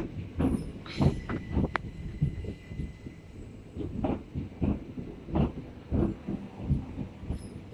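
Class 375 Electrostar electric multiple unit running slowly into the platform, its wheels giving irregular low knocks and clunks over the rail joints, with a faint steady high tone for a couple of seconds about a second in.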